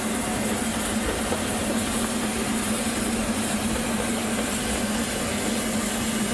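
Miniature 7¼ inch gauge steam locomotive heard from its footplate, a steady running noise with no distinct exhaust beats while it runs gently with the blower on.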